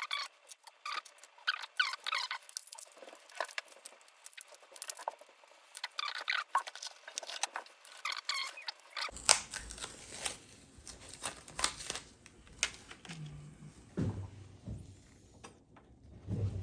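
Plastic clicks and short squeaks as small instrument-cluster bulbs are twisted and popped out of their sockets in a pickup's gauge cluster, with scattered handling knocks and taps.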